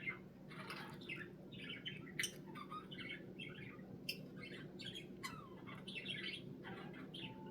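Budgerigar chattering and warbling in a run of short chirps, over the steady hum of a running air purifier.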